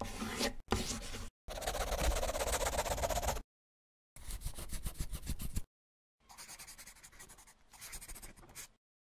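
Scribbling sound effect, like writing on paper: about five passages of quick scratchy strokes with short silences between them, the last two fainter.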